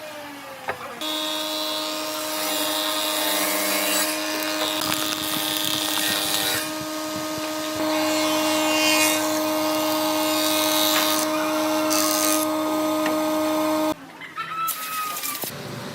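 Electric power tool motor running at a steady pitch, with a rough hiss as it cuts into wood; it starts about a second in and stops abruptly near the end.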